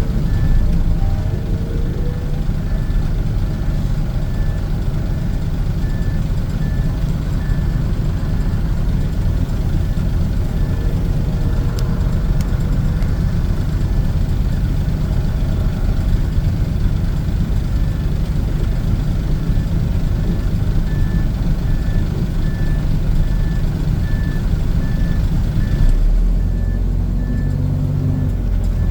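Heavy diesel truck engine running steadily, with a vehicle's reversing beeper sounding in a regular pulse, a little over one beep a second, for the first third and again through the last third. Near the end the engine note changes and rises.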